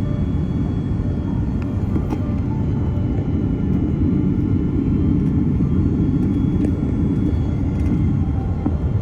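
Cabin noise inside an Airbus A330-300 airliner: a steady low rumble of engines and airflow, a little stronger midway, with a few faint rattles from the cabin fittings.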